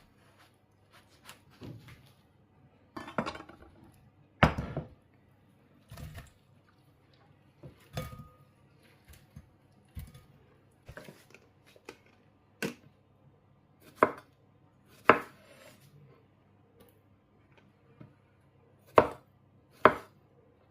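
Kitchen work: irregular knocks and light clatter, like a knife on a chopping board and utensils against dishes. A few sharper knocks come in pairs, one pair about two-thirds of the way through and one near the end.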